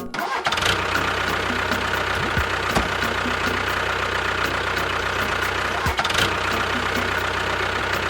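A vehicle engine running steadily, with a regular light knock repeating a few times a second.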